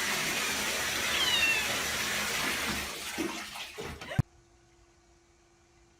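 A cat giving short, high, falling meows over a steady rushing noise, with a few soft knocks; everything cuts off abruptly a little after four seconds.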